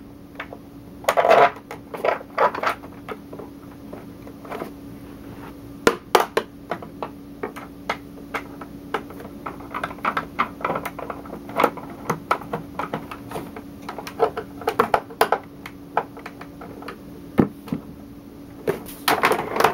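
A screw being driven by hand into the plastic housing of a Hoover Futura upright vacuum: irregular clicks and scrapes of the screwdriver and the plastic parts, over a faint steady hum.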